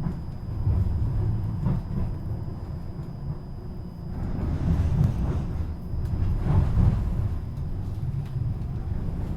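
Tram running along its rails, heard from inside the car: a low rumble that swells and eases, with a few light knocks and a faint steady high whine.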